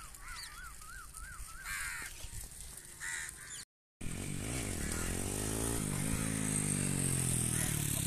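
A bird calls in a quick run of rising-and-falling notes. After a short break in the sound, a steady rushing noise swells and fades, like a vehicle passing.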